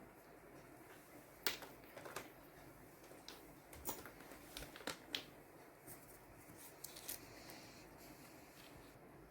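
Faint, irregular clicks and taps of painting materials being handled, about seven sharp ticks spread over a few seconds.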